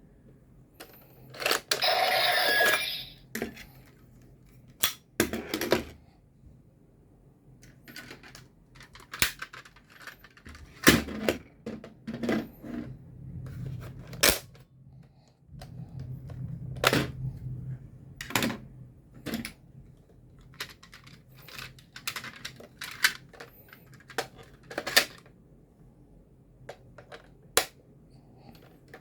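Irregular sharp plastic clicks and snaps from a toy transformation belt, a bootleg DX Zero-One Driver, and its Progrise Keys being handled, with a short, louder noisy burst about two seconds in.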